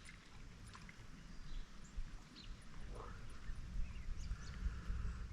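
Quiet outdoor pond ambience: a few faint bird chirps and scattered small clicks, with a low rumble that builds near the end.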